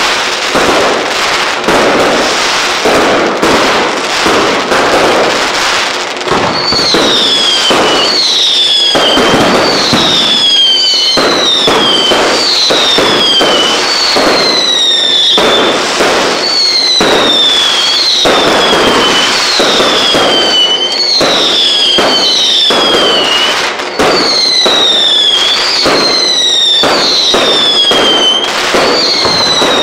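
Fireworks display: shells bursting with dense bangs and crackling. From about a fifth of the way in, whistling fireworks add a steady run of falling whistles, about one a second, over the bangs.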